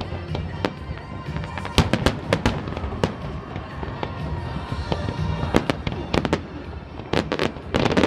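Fireworks bursting in quick, irregular bangs and crackles, with clusters of shots about two seconds in and again near the end, over music from the pyromusical soundtrack.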